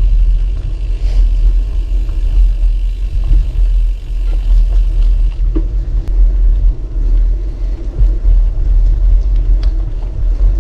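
Wind buffeting a GoPro MAX's microphone while riding a gravel bike: a loud, uneven low rumble, with scattered small ticks from the tyres rolling over gravel.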